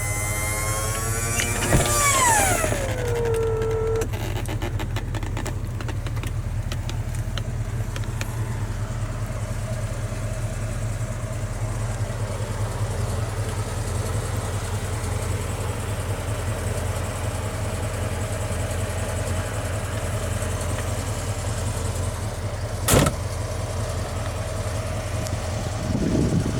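1985 Ford Mustang GT's 302 V8 idling steadily. In the first few seconds an electric motor whine falls in pitch and stops about four seconds in, and a single sharp click comes near the end.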